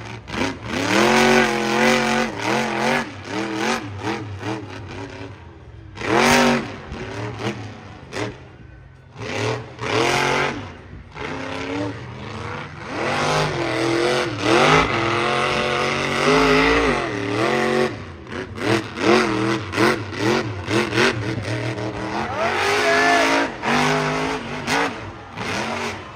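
Monster truck engine revving hard, its pitch climbing and dropping again and again in repeated throttle bursts, with louder surges every few seconds.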